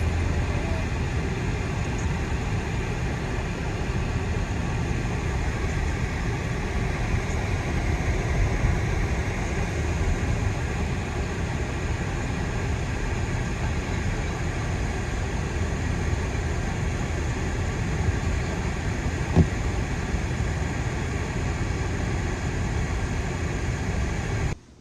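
Steady low road and engine noise, as heard inside a moving car, with a single sharp click about 19 seconds in.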